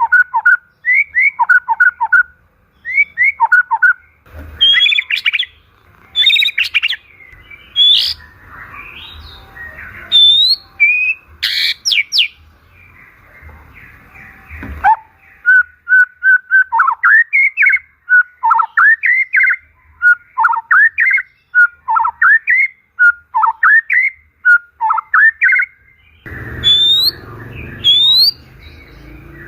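White-rumped shama (murai batu) singing loudly: short, clear whistled phrases repeat about once a second, broken in the middle by a scratchier, busier run of notes. Near the end, higher rising whistles come in over a low rumbling noise.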